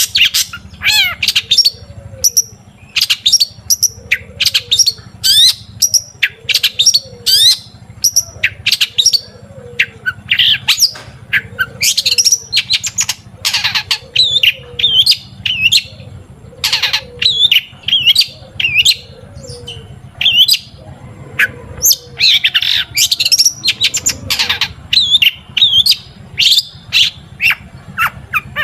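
Long-tailed shrike (cendet) singing loudly and continuously: a rapid, varied stream of high chattering and whistled phrases. Underneath it, a low arched note repeats about once a second for most of the stretch, stopping near the end.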